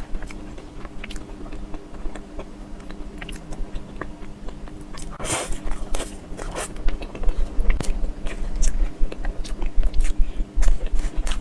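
Close-miked eating: biting into and chewing dessert, with many small wet clicks and smacks of the mouth.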